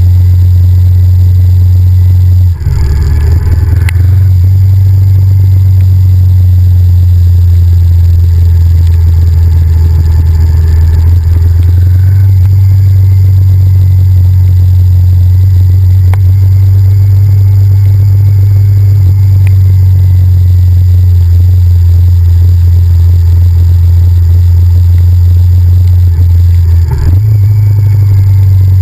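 Honda VTR1000F's 90-degree V-twin engine running steadily under way, picked up loud and close by a camera mounted on the motorcycle, a deep low drone. The drone breaks briefly about two and a half seconds in and again near the end.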